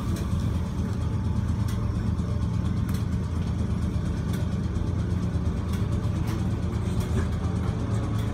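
Merseyrail electric train running, heard from inside the carriage: a steady low hum and rumble with a few light clicks from the track.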